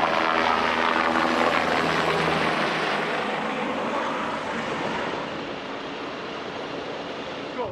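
Helicopter in flight, a steady mix of turbine engine and rotor noise that grows quieter in the last few seconds.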